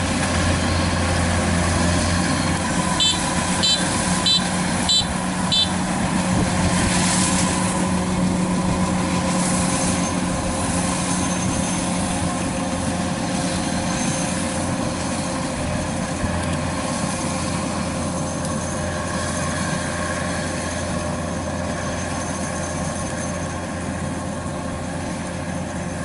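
Kubota DC-93 combine harvester's diesel engine and threshing machinery running at a steady hum. About three seconds in, five short high beeps come about half a second apart.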